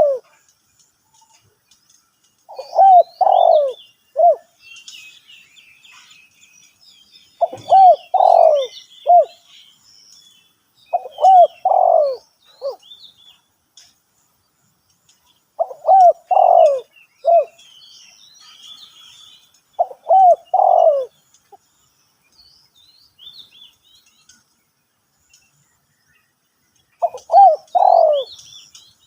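Spotted dove cooing: six short phrases of three or four coos, each about a second and a half long, repeated every few seconds. Small birds chirp faintly behind.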